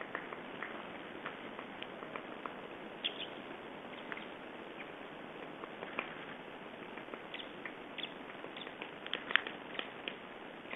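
Small birds giving short, high chirps and ticks, scattered irregularly, with a brief cluster about nine seconds in, over a steady hiss.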